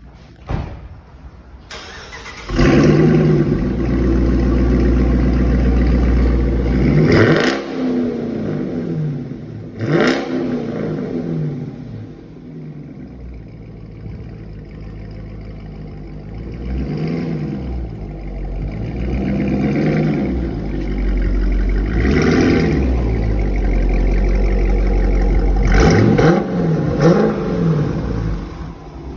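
Dodge Challenger R/T's 5.7-litre HEMI V8 through a Corsa Extreme cat-back exhaust: it starts with a loud flare a couple of seconds in, settles into a deep idle, then is revved in about seven short blips, each rising and falling in pitch.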